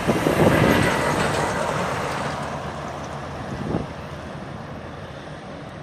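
Passenger train running past and moving away, its rumble loudest in the first second and fading steadily after.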